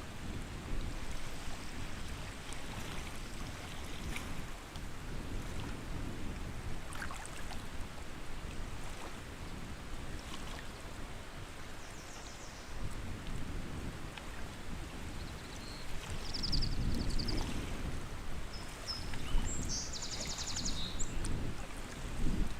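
Lakeside water lapping as a steady rough wash, growing louder in the second half. Short high bird trills come in a few times over it, the longest near the end.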